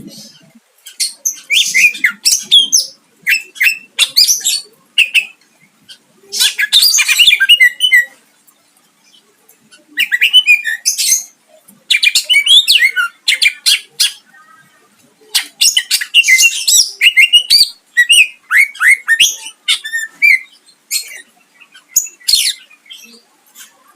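Cucak ijo (green leafbird) singing loudly: fast, varied, high-pitched phrases of chirps, whistles and harsh notes in bursts of one or two seconds, separated by short pauses.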